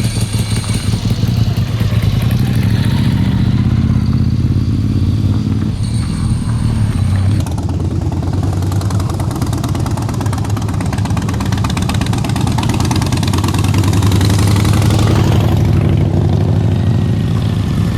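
Motorcycle engine running steadily at a low pitch, its note shifting about a third of the way in and again near the end.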